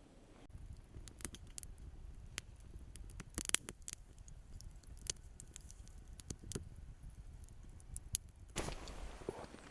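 Scattered, irregular sharp clicks and crackles over a low rumble, with a short rustling scrape near the end.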